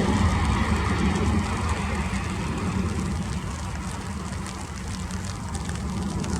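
Rain falling, with faint scattered drop ticks, over a steady low rumble that dips slightly in the middle.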